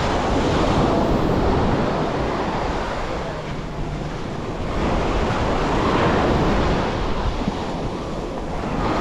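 Waves breaking and washing up on the shore, surging twice, with wind buffeting the microphone as a low rumble.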